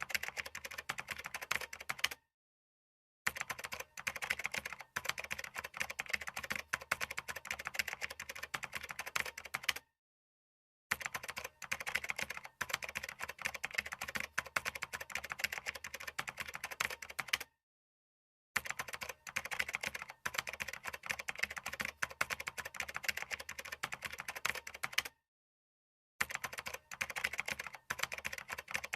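Fast typing on a computer keyboard: a dense, steady run of key clicks, cut four times by about a second of dead silence.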